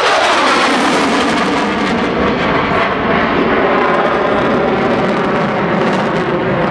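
Aircraft engine noise from a plane flying by, loud and steady.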